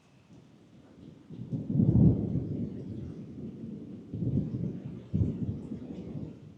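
Thunder rumbling during steady rain: a low rumble swells up about a second and a half in, is loudest about two seconds in, rolls on in further swells, and fades near the end.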